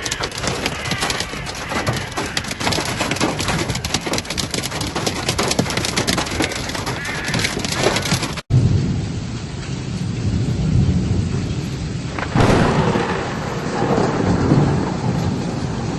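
Heavy hailstorm: hailstones pelting hard surfaces in a dense, rapid rattle of impacts. About eight seconds in it cuts to a lower, rumbling downpour that surges again near the end.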